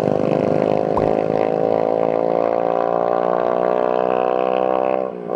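A motor engine running steadily at an even pitch, with a brief drop just before the end.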